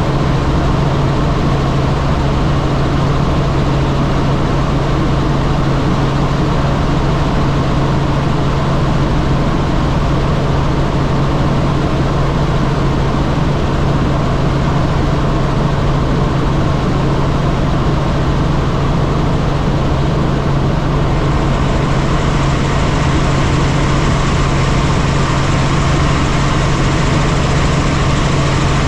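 Helicopter running steadily in flight: a loud, even drone with a strong low hum. About two-thirds of the way through a higher hiss joins it, and it cuts off just before the end.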